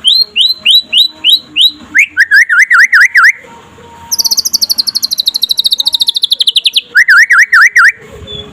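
Young white-rumped shama (murai batu) singing a varied song. It opens with about seven quick rising whistled notes, then comes a run of lower up-and-down notes, then a long fast trill sliding down in pitch, and the lower up-and-down notes again near the end.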